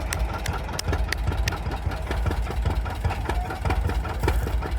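Antique tractor engine running, a low pulsing rumble with frequent sharp clicks over it.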